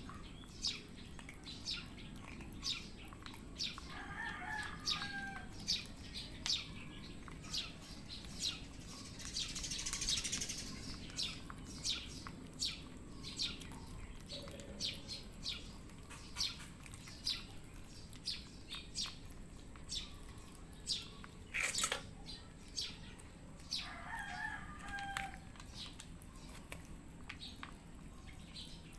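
Cats chewing dry kibble mixed with wet food, with crisp, regular crunching clicks about one and a half a second. One louder sharp click comes a little past two-thirds of the way through, and a short chirping call is heard twice.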